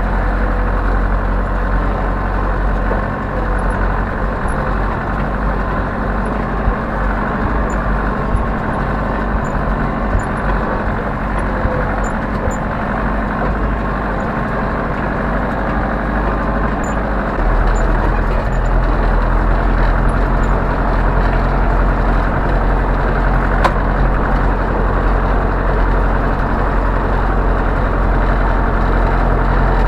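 Zetor 7011 tractor's four-cylinder diesel engine running steadily. About halfway through, it gets louder and fuller, as if revs or load rise.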